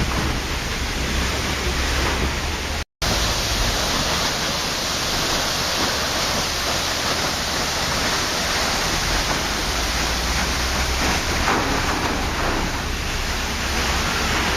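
Waterfall: a steady rush of falling water, cutting out completely for a split second about three seconds in.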